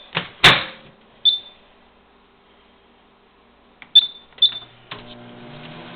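Microwave oven keypad beeping as it is set, with a loud clunk about half a second in; about five seconds in the oven starts running with a steady hum.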